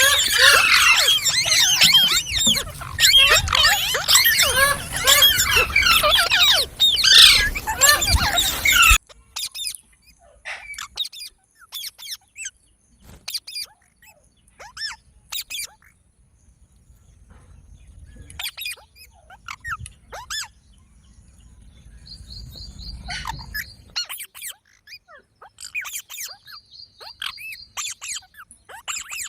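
Green parrots chirping: for about the first nine seconds a loud, dense chatter of overlapping short calls, which cuts off suddenly and gives way to sparse, quieter chirps with a couple of quick trills later on.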